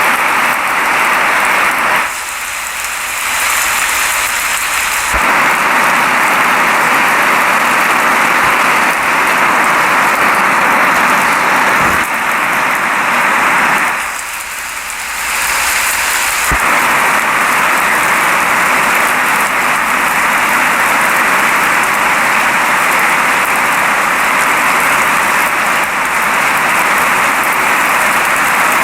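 Steady rain falling, a dense even hiss, easing briefly twice, about two seconds in and about fourteen seconds in.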